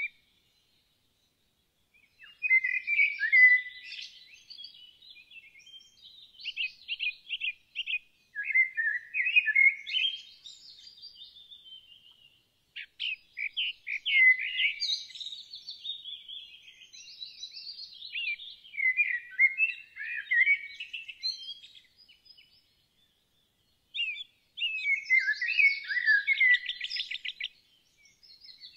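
A songbird singing long, varied phrases of chirps, whistles and rapid trills in three bouts, separated by short silences.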